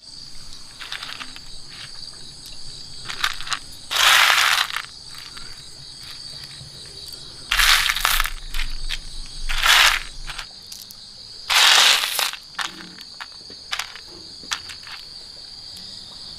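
Insects chirring steadily at a high pitch, with four loud rasping, crunching noises of about half a second to a second each, and scattered small clicks in between.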